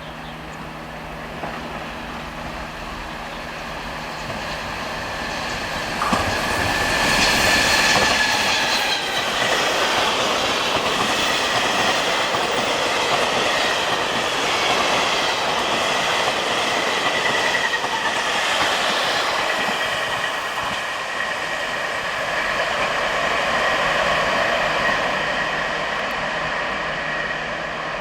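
Train running past on the track, its noise swelling sharply about six seconds in and staying loud, with a steady high whine over the rumble of wheels on rail.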